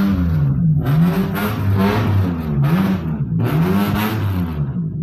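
An engine revved repeatedly through an aftermarket exhaust (knalpot) during an exhaust sound test, the pitch rising and falling in about four blips of the throttle.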